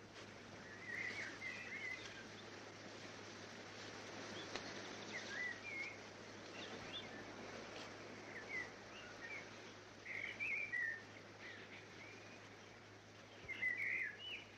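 Faint birdsong: short chirping phrases every second or two over a steady background hiss.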